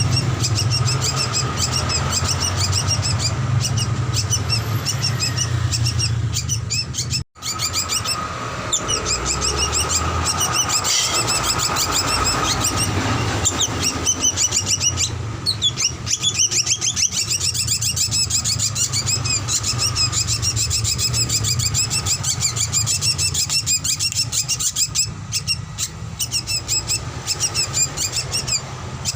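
Drongo (srigunting) song: a dense run of rapid chirps and twittering notes, over a steady low hum. The sound drops out briefly about seven seconds in.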